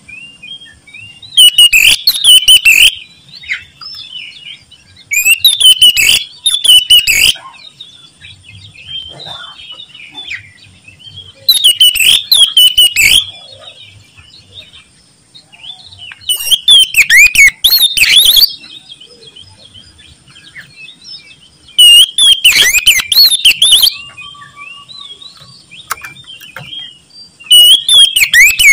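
Oriental magpie-robin (kacer) singing loudly: bursts of fast, varied whistled phrases every few seconds, with softer twittering between bursts.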